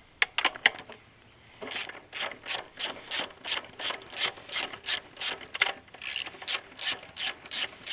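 Socket ratchet with an extension backing out an 8 mm gas-tank bolt: a few sharp clicks, then from about a second and a half in, steady back-and-forth ratcheting at about three strokes a second.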